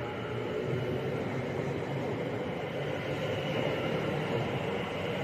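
Train noise: a steady rumble and hum, with faint steady tones over it.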